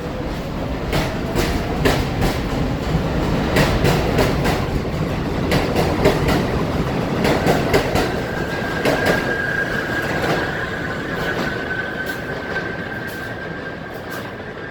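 R62 subway train running: a motor whine rises in pitch at the start, and the wheels clack over rail joints in a string of sharp clicks. A steady high tone joins about halfway, and the sound eases off slightly near the end.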